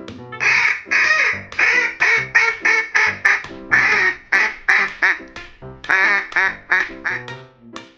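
A rapid series of short animal calls, about two to three a second, over background music.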